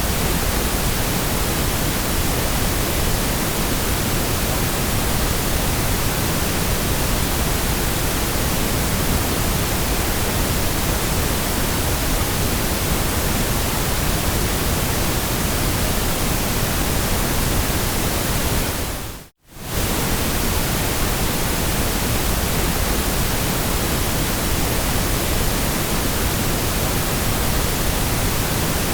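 Steady white noise, an even hiss spread across all pitches. It drops out to silence for a moment about two-thirds of the way through, then resumes unchanged.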